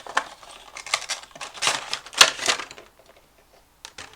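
Rustling and crinkling of a cardboard Funko Pop box with a plastic window being handled, in a run of sharp scrapes and taps that is loudest about two seconds in. It stops for about a second, then a single click comes near the end.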